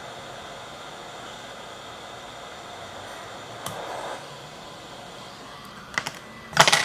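Hot air rework station blowing steadily on an iPhone 6S logic board, heating the solder that holds a metal shield. Near the end come a few sharp loud clicks.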